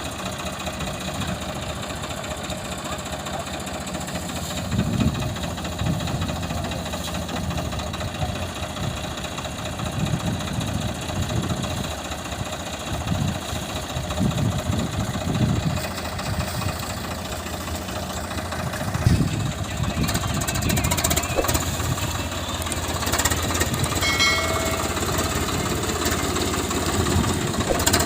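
Swaraj 744 FE tractor's three-cylinder diesel engine idling steadily.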